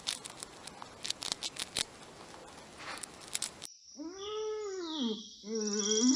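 A pet rat nibbling and crunching food, with small sharp clicks over a soft hiss. About three and a half seconds in it cuts to a young calf giving two drawn-out moos, each rising and then falling in pitch.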